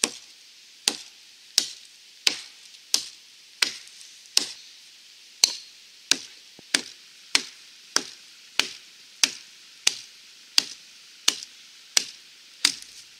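Wetterlings Wildlife hatchet chopping across a log, one-handed: a steady series of sharp knocks of the steel head biting into the wood, about three strokes every two seconds.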